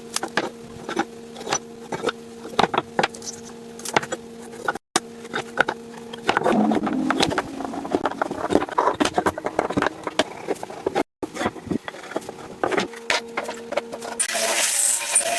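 Irregular sharp knocks and clicks with scraping in between, over a steady hum in parts, breaking off abruptly a few times.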